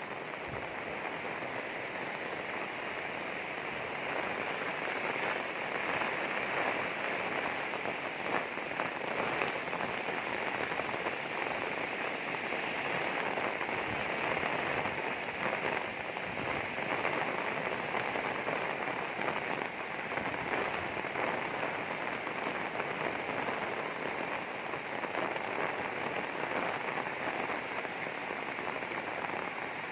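Heavy rain falling steadily, a dense, even hiss of countless drops striking the ground and nearby surfaces.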